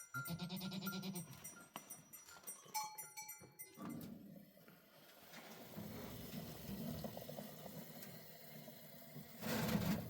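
Livestock bleating: one long wavering bleat at the start and a shorter one about three seconds in, then fainter low sounds, with a brief burst of noise near the end.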